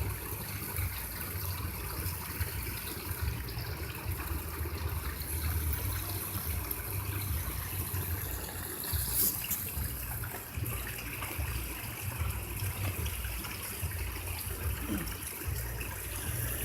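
Steady running water, with one brief sharp click about nine seconds in.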